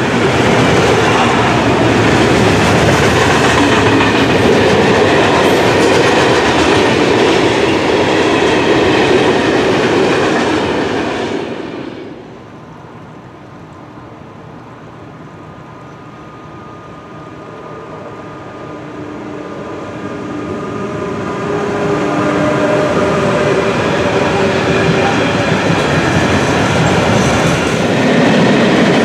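Freight wagons rolling past close by with a loud, steady clatter of wheels on rail, which cuts off sharply about twelve seconds in. A train is then heard faintly in the distance with a few steady tones, growing louder over the next ten seconds until a train of tank wagons rolls past with the same loud wheel noise near the end.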